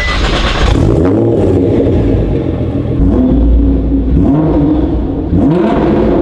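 Car engine revving, its pitch rising and falling several times in a row over a steady low rumble.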